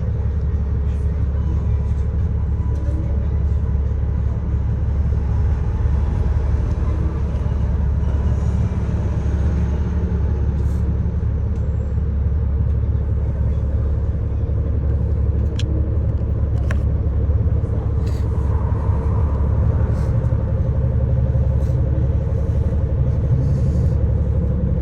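Steady low rumble of a city bus's engine and road noise, heard from inside the moving bus, with a few sharp clicks in the second half.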